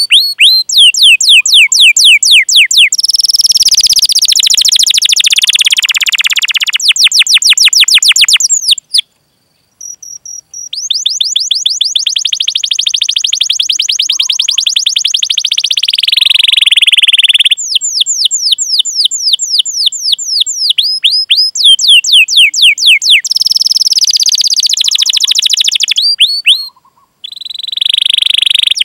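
Domestic canary singing: long series of fast, high, down-slurred chirps running into dense rolling trills. The song breaks off briefly about nine seconds in and again shortly before the end.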